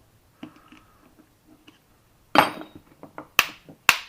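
Hammer blows on a starter drive's steel shell to knock the case loose: a few light metal clinks, then a loud ringing strike a little past two seconds in and two sharp strikes in the last second.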